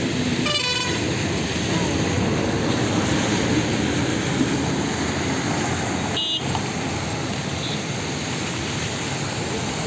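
Steady road traffic rumble, with a short high pitched vehicle horn toot about half a second in and another about six seconds in.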